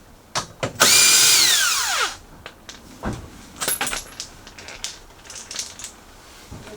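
A handheld power tool runs briefly at full speed and is released, its whine falling in pitch as it spins down, followed by a few light clicks and knocks of tools and metal.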